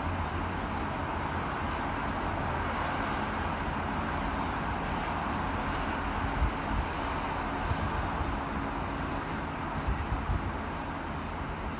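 Gusting wind buffeting the microphone in short low thumps, over a steady roar of city traffic.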